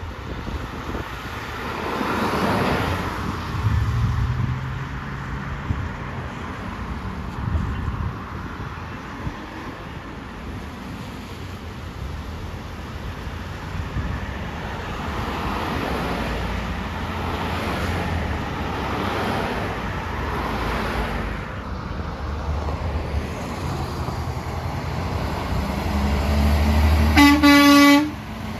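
Trucks passing on a road, their engine and tyre noise swelling and fading. Near the end comes a loud horn blast of about a second, the loudest sound.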